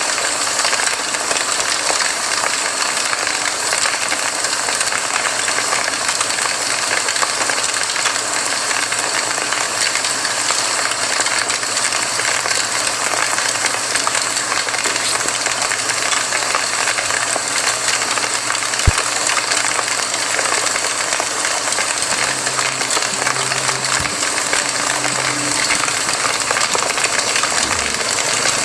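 Campfire burning with a steady hiss and many small irregular crackles, and one sharper pop about two-thirds of the way through. A faint low hum runs underneath.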